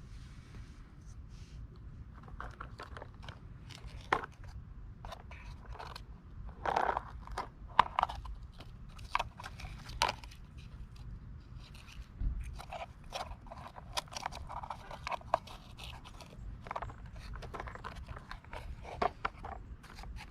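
Model garbage trucks being handled by hand: irregular clicks, scrapes and small knocks of their parts, thickest about seven to ten seconds in.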